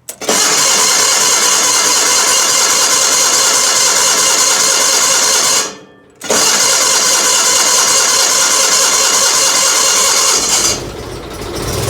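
Gravely 817's Onan CCKA twin-cylinder engine cranked over on a cold start after sitting for months: the starter cranks for about five seconds, stops briefly, cranks again for about four seconds, and the engine catches near the end and settles into running.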